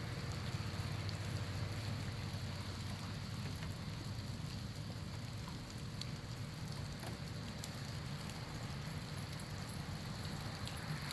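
Steady outdoor background noise: a low rumble with scattered light ticks and patters.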